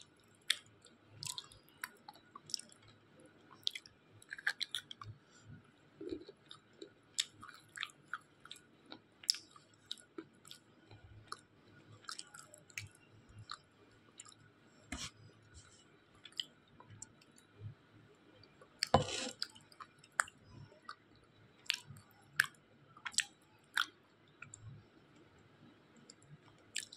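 Slate pencils soaked in water being chewed in the mouth: irregular sharp crunches and clicks, with a longer, louder crunch about nineteen seconds in.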